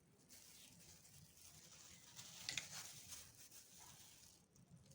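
Near silence: faint room hiss, with one light tap about two and a half seconds in.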